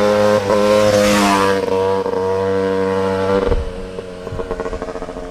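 KTM 300 two-stroke dirt bike engine held at steady high revs. About three and a half seconds in it drops off to a quieter, lower, uneven running note.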